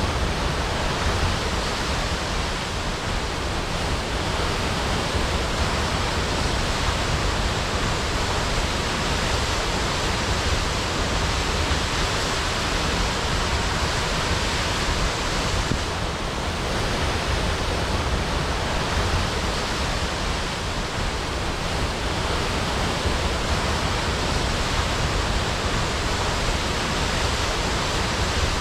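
Waterfall crashing: a steady, unbroken roar of falling water with a deep rumble underneath.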